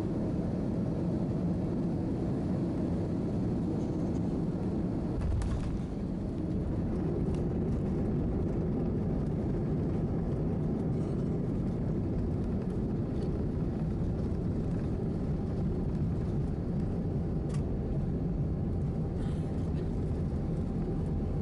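Steady low cabin rumble inside an Airbus A319-111 on the ground after landing, its CFM56 engines running at low power. A brief knock comes about five seconds in, and a few faint clicks follow.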